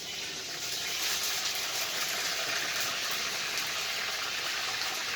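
Water running from a kitchen tap in a steady gush, swelling over the first second and then holding even.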